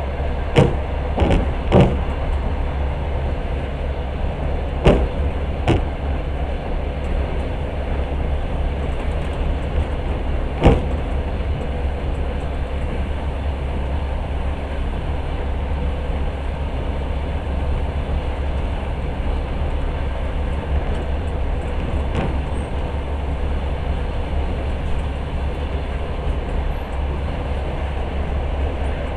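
Passenger train carriage running on the rails, heard from inside: a steady rumble and hum with a few sharp knocks, most of them in the first eleven seconds.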